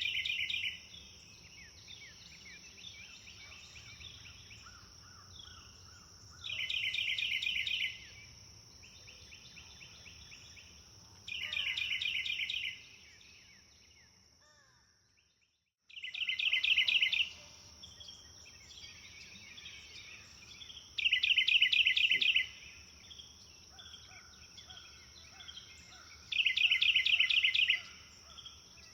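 Birds singing: one bird repeats a loud, rapid trilled phrase about a second and a half long every five seconds or so, over softer chirps and calls from other birds and a steady high-pitched drone. All sound drops out briefly about halfway through.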